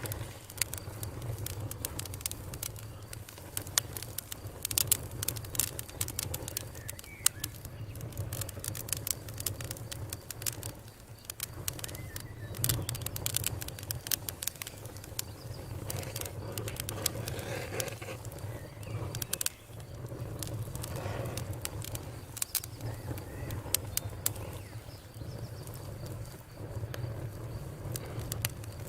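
Wood campfire crackling, with frequent irregular sharp pops over a steady low rumble of the burning fire.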